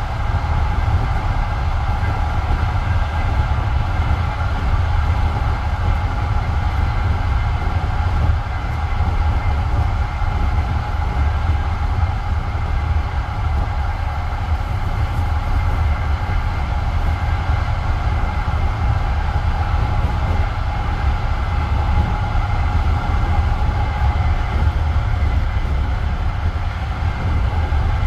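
Passenger railway coach running between stations: a steady heavy rumble of the wheels rolling on the rails, with a steady whine above it.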